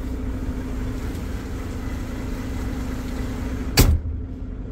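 Semi-truck engine running steadily, heard from inside the cab, with one sharp knock near the end.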